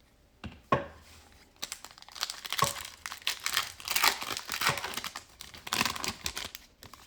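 A foil trading-card pack wrapper being torn open and crinkled by hand, with a couple of sharp clicks first, then several seconds of dense crackling.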